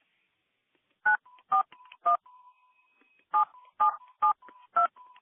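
Telephone keypad touch-tones (DTMF) keying in a phone number: after about a second of silence, three quick key beeps, a short pause, then a steady run of beeps about two a second, with a faint steady tone between them.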